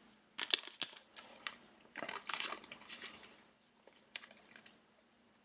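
Trading cards and their plastic packaging being handled: irregular crinkling and rustling with small clicks, in several short bursts.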